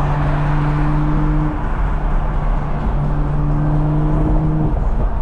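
Car cruising at highway speed heard from inside the cabin: steady wind and road noise with a low hum underneath.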